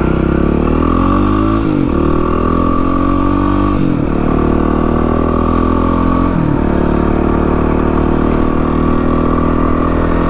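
Kawasaki KLX300R's single-cylinder four-stroke engine, with an FMF Powercore exhaust and an open airbox, accelerating away. It revs up with three upshifts, about two seconds apart, then holds a steady pitch before the throttle closes at the very end.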